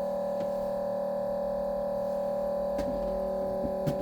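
A steady hum of several held tones that do not change, with a few faint clicks, the sharpest one just before the end.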